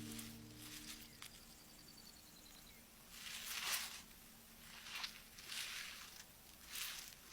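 Soft scuffing and rustling on stony ground, in a few short swishes, with faint fading music at the start.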